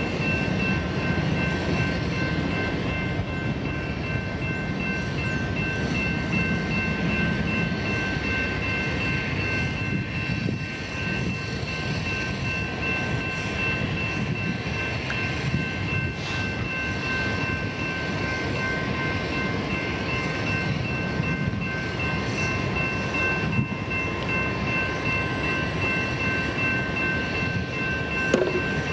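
Union Pacific freight train rolling past, mostly double-stacked container cars behind the locomotives: a steady rumble and clatter of wheels on rail, with steady high-pitched tones running over it.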